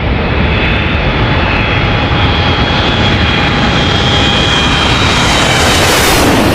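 Jet airliner engines running with a steady rush and a high whine over it; the hiss grows brighter near the end.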